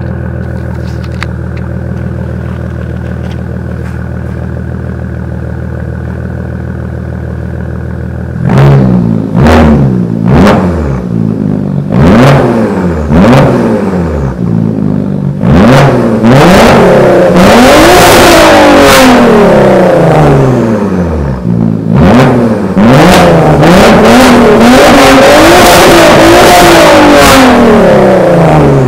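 Audi B5 S4's twin-turbo 2.7-litre V6 through a catless straight-pipe exhaust (2.5-inch downpipes, true dual, no muffler, only resonators), idling steadily, then revved repeatedly from about eight seconds in: short blips at first, then longer held revs near the end.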